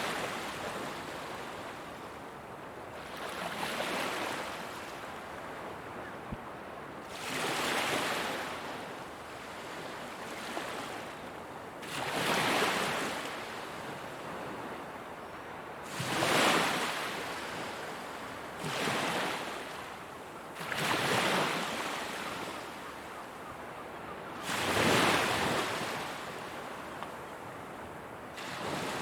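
Ocean waves breaking on a shore, each wave swelling into a loud rush of surf and washing back, about every four seconds.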